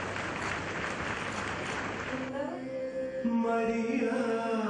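Steady crowd noise, then an abrupt cut about halfway in to voices singing a chant-like hymn in long held notes.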